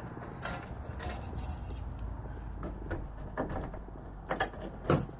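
Handling noise: a run of light, irregular clicks and jingling metallic rattles as things are picked up and moved about, with the sharpest click just before the end.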